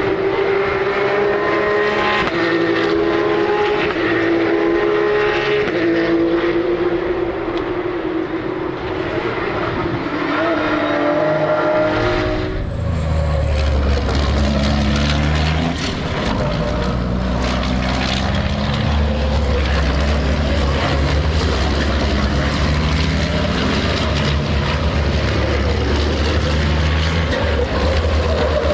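Racing engines running at speed on the circuit. For about the first twelve seconds a higher engine note rises and steps in pitch with gear changes; then the sound switches abruptly to a deep, low, steady engine drone.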